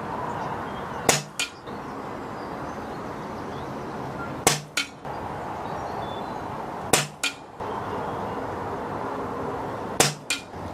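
Four shots from a pre-charged pneumatic air rifle, spaced about three seconds apart. Each sharp crack is followed a fraction of a second later by a second, fainter crack. Steady wind noise runs underneath.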